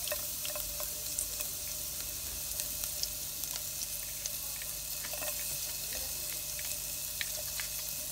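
Chopped garlic sizzling in melted butter in a pot: a steady frying hiss with scattered small pops.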